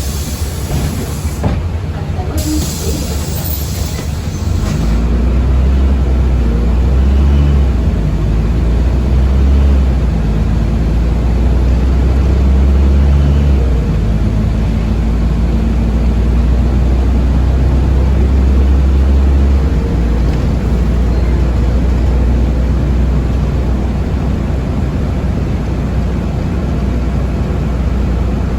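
Riding inside a city bus: a short hiss of air in the first few seconds, then the low drone of the drive and road rumble grows louder about five seconds in and holds steady.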